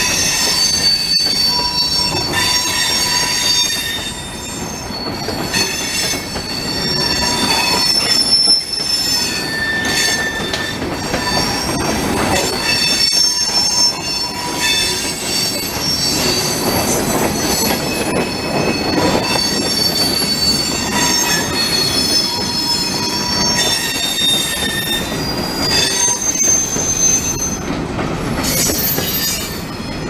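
Empty freight cars (tank cars and covered hoppers) rolling past close by, their steel wheels squealing on the rail in high tones that come and go, over a steady rumble and the clatter of wheels on the track, with a few sharp clanks.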